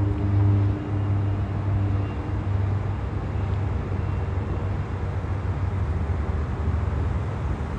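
Steady low rumble and noise of a freight train and a Sounder commuter train passing at a distance. A deep engine drone fades out over the first two or three seconds.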